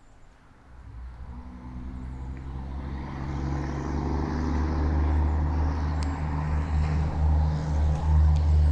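A motor vehicle approaching: a low, steady engine drone with tyre and road hiss, growing steadily louder until it is close by near the end.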